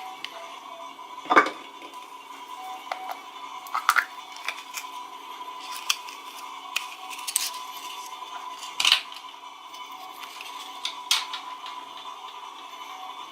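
Toy packaging being handled and opened: sharp clicks and short crinkles of plastic and wrappers, loudest about a second in and again near nine seconds. Under them runs a faint steady hum.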